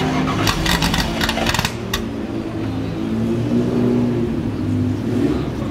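Classic race car engine idling steadily. Between about half a second and two seconds in, a quick run of sharp metallic clicks sits over it.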